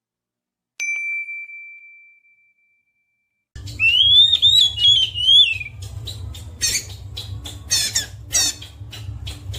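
A single ringing tone that starts sharply and fades out over about a second and a half, then, about three and a half seconds in, caged songbirds singing in rapid, gliding chirps and warbles over a steady low hum.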